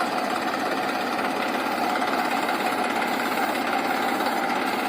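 Tractor diesel engine running steadily with a continuous knocking chatter.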